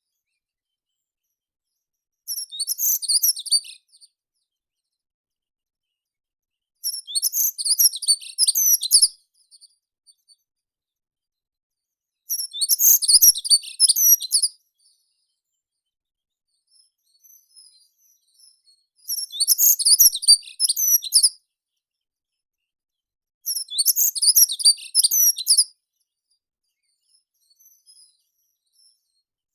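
A meadow songbird singing: five phrases of rapid, very high chirping notes, each about two seconds long, with pauses of three to four seconds between them.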